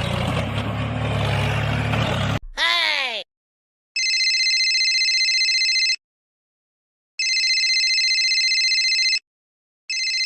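An electronic ringing tone, like a telephone ring, sounding in three bursts of about two seconds each with dead-silent gaps between. Before it, a noisy rumble with a low hum cuts off and a short falling swept tone follows.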